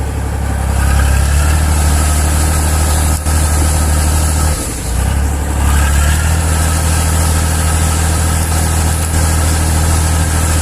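Heavy truck engine running hard under load, dipping briefly about halfway and then picking up again, as the truck tries to pull out of deep mud.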